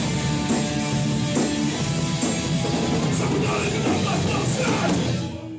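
Live hardcore band playing: distorted guitars, bass and a drum kit at full volume. The song ends near the close and the sound falls away.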